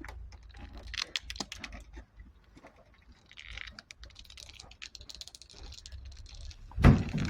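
Scattered light clicks and rattling knocks of things being handled, then a loud heavy thud near the end.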